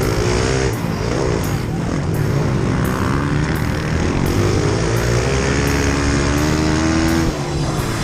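Pit bike engines racing, revving up and down repeatedly as they shift and accelerate.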